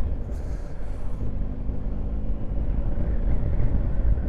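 BMW R1250 GS boxer-twin engine running steadily while riding, under heavy wind rumble on the microphone. A brief hiss comes about half a second in.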